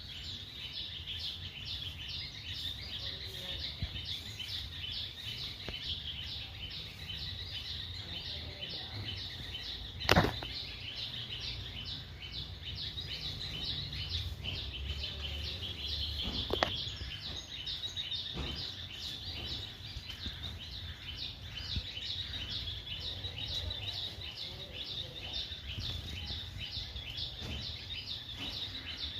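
Outdoor ambience: a steady, rapid run of high-pitched chirps, several a second, over a low rumble, with a sharp knock about ten seconds in.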